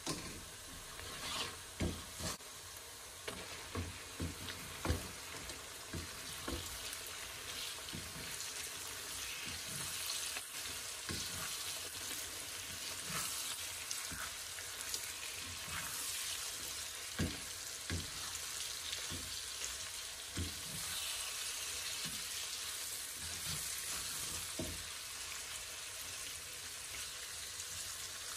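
Sliced onions and lamb cubes frying in hot oil in a saucepan, sizzling steadily, while a wooden spoon stirs them. The spoon knocks against the pan many times, most often in the first several seconds.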